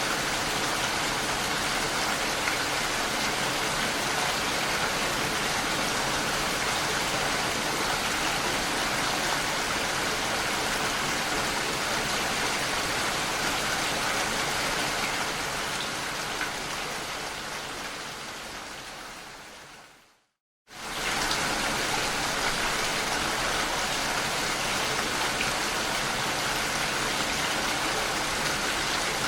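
Steady rain falling, an even hiss of drops. About two-thirds of the way through it fades out over several seconds to a brief moment of silence, then comes back at full level all at once: the join where the recording loops.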